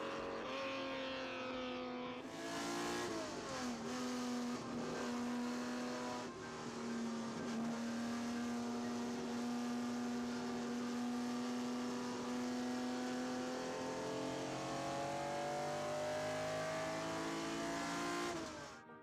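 Ferrari 250 GTO's V12 engine running under load. The pitch drops about three seconds in, holds steady, then climbs smoothly as the car accelerates, and the sound cuts off suddenly near the end.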